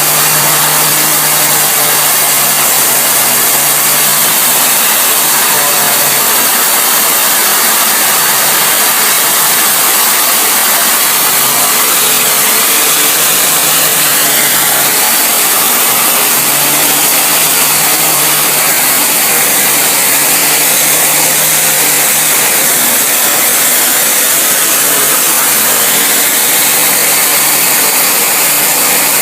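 Gum-removal cleaning machine running steadily: a loud, constant hiss over a low hum.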